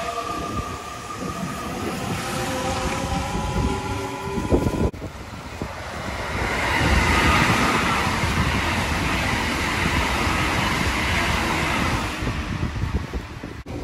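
Meitetsu electric train moving along the platform, its traction motors whining in several steady tones over wheel rumble, cut off suddenly about five seconds in. Then a JR 313 series rapid train passes on the main line with a steady rushing roar of wheels and air that swells, holds for several seconds and fades near the end.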